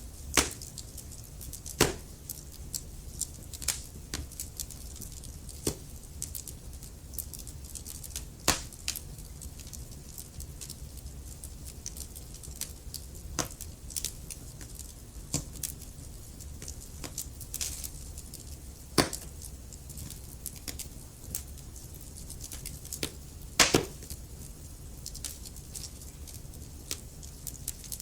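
Wood fire crackling in a fireplace: irregular sharp pops and snaps, a handful much louder than the rest, over a low steady rumble of the flames.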